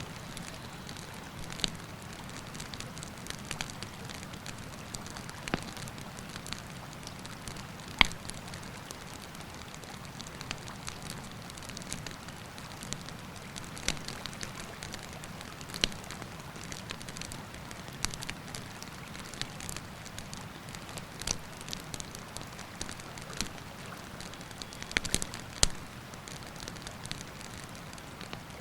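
Wood campfire crackling, with irregular sharp pops over a steady rush of river water. The loudest pop comes about eight seconds in, with a quick cluster of pops near the end.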